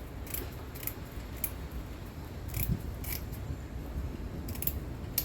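Cheap household scissors snipping through old window-screen mesh: about seven sharp cuts spaced unevenly, with short pauses between them.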